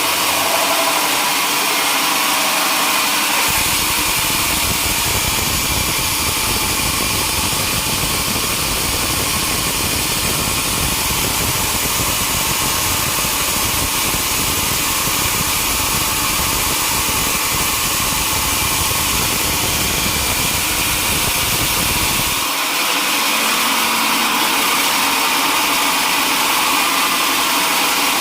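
Sawmill machinery running steadily while sawing mahogany. A deep low rumble comes in abruptly a few seconds in and cuts off about six seconds before the end.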